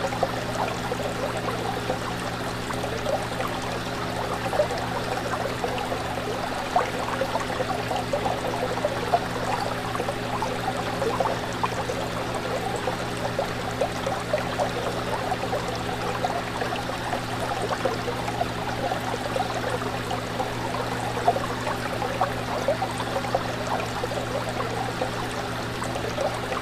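Aquarium water bubbling and trickling in a steady, busy patter, over a constant low electric hum from the tank's equipment.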